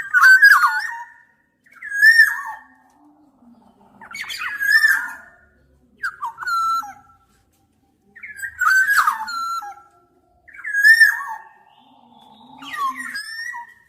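Black-naped oriole singing: a series of short, fluty whistled phrases, about one every two seconds, each made of quick up-and-down pitch glides.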